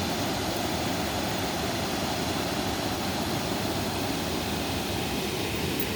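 Small creek waterfall, water rushing in a steady, even roar.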